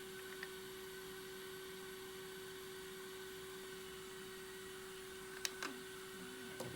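Steady electrical hum from bench equipment, a single low tone with a fainter higher whine, and a couple of small clicks near the end.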